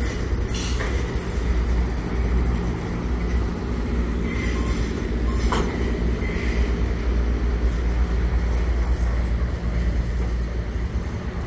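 Train rolling past: a steady rumble of wheels on the rails.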